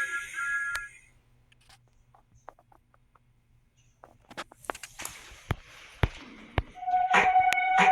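Film-trailer soundtrack: a short lull, then a few scattered sharp clicks and knocks, and music with held notes starting near the end.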